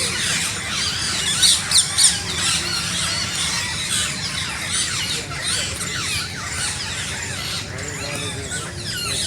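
A flock of parrots chirping and squawking, many short high-pitched calls overlapping without pause, with a few louder squawks about one and a half to two seconds in. A steady low rumble sits underneath.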